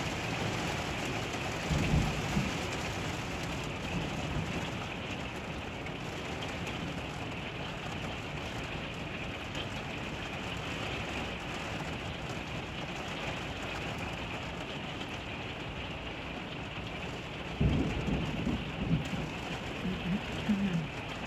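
Heavy rain pouring steadily, heard from behind a rain-streaked window. Short low rumbles come about two seconds in and again several times near the end.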